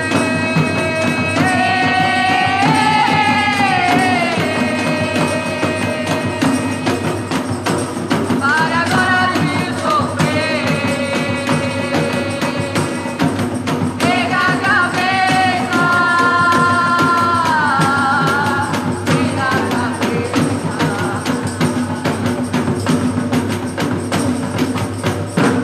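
A gospel band playing live music: steady percussion under a melody of held notes that slide up and down in pitch.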